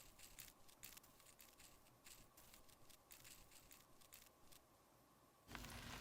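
Faint scratchy taps and scrapes of makeup being handled and worked, then a louder, longer scraping sound starting near the end.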